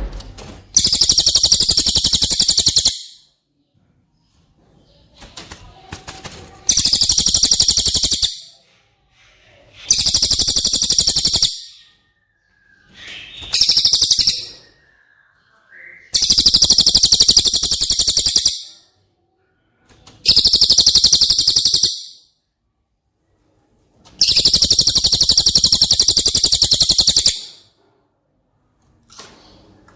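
Recorded song of the cililin, a songbird used as training material for white-rumped shamas: a fast, high, buzzy trill of rapid notes, given in seven bursts of about two to three seconds each with short pauses between.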